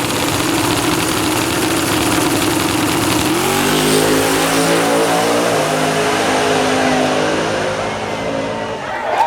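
Drag race car engine at full throttle. Its pitch climbs about three seconds in, then slowly drops and fades toward the end as the car runs away down the track.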